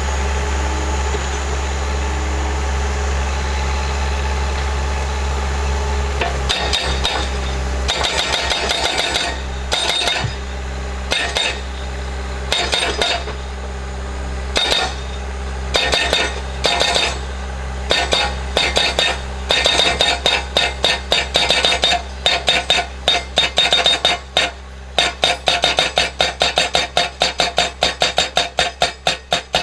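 Skid steer engine running steadily, then about six seconds in the Eterra PDX-1000 breaker-style hydraulic post driver starts striking a post with sharp metallic blows. The blows come in short bursts at first and settle into fast, even hammering of about four blows a second.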